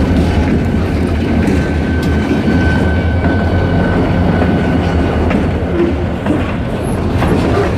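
Freight train rolling past, a steady heavy rumble of wheels on the rails, with a faint high whine held for a few seconds in the middle.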